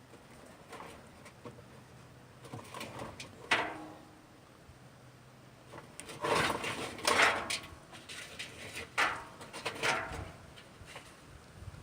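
Several short bouts of scraping and knocking, as of objects being handled or moved, with the loudest bout about six to seven and a half seconds in.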